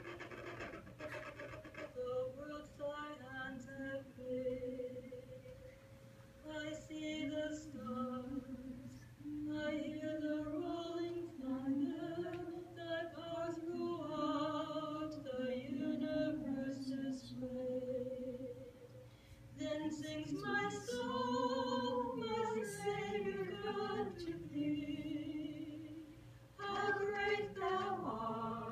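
A group of voices singing a slow song unaccompanied, in long held phrases with short breaks between them.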